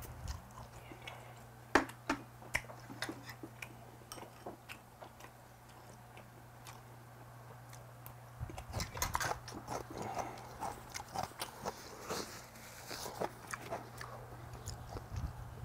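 A person eating up close: chewing and biting with wet mouth noises, sparse at first and denser in the second half. There are a few sharp clicks about two seconds in, and a faint steady low hum underneath.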